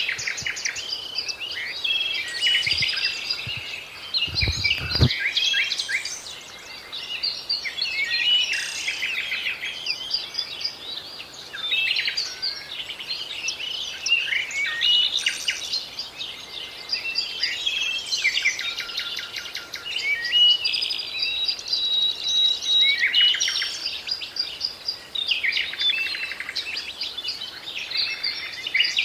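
Songbirds singing together in a continuous chorus of overlapping chirps, trills and quick rising and falling notes. A brief low rumble comes about four seconds in.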